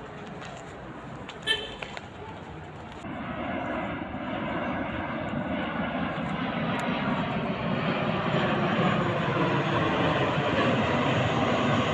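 A steady rushing engine noise that swells in from about three seconds in and keeps growing louder, with a single sharp click about a second and a half in.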